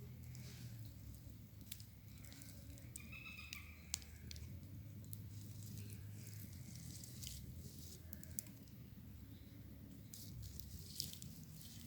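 Wood fire crackling quietly, with irregular sharp pops and snaps over a low rumble. A brief pitched call sounds once about three seconds in.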